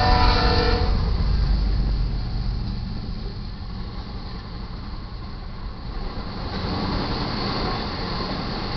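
A freight locomotive's horn ends within the first second, leaving the steady low rumble of a BNSF intermodal freight train's GE diesel locomotives and trailer-laden flatcars rolling past. The rumble eases a little mid-way and builds again about seven seconds in.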